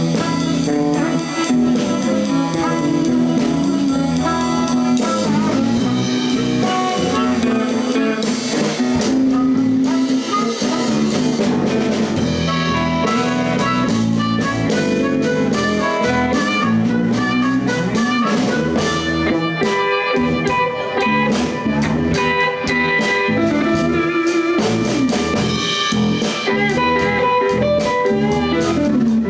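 Live blues band playing an instrumental passage between sung verses: guitar over bass and a drum kit.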